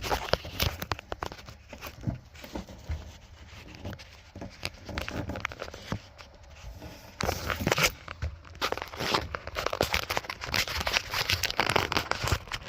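Irregular clicks, crinkling and rustling of close handling in a small space, growing busier about seven seconds in.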